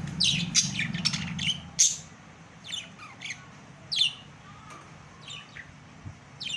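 Pet budgerigars chirping and squawking in short, sharp calls: a quick flurry in the first two seconds, then single calls every half second or so.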